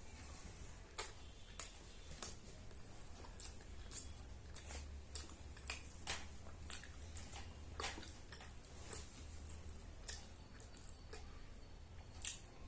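A person eating a plate of dum biryani up close to the microphone: moist chewing with short, sharp lip-smacking clicks at irregular moments, about one or two a second, over a faint low hum.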